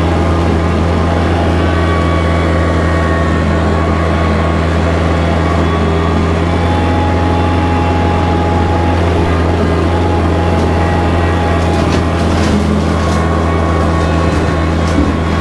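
Kubota tractor's diesel engine running at a steady speed while bush hogging, with a few faint clicks near the end.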